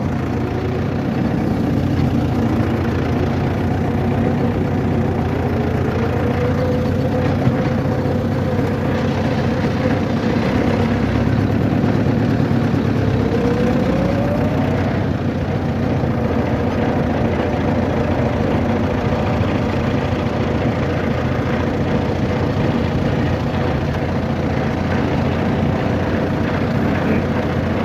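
A road vehicle's engine running steadily under a constant rumble, with its pitch rising twice as it speeds up.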